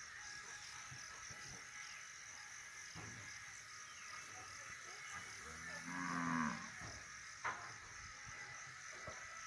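A cow moos once, a low call of about a second starting about five and a half seconds in, dropping in pitch at the end. Under it runs a steady high-pitched background drone.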